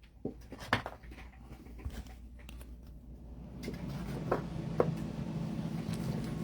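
Trading cards being handled and flipped through: a few soft clicks and light rustles, with a low steady hum coming in about halfway.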